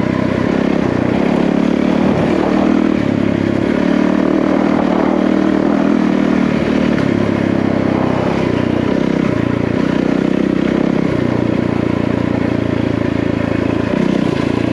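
Yamaha WR450F dirt bike's single-cylinder four-stroke engine running under way on a trail, its note stepping up and down several times with throttle and gear changes.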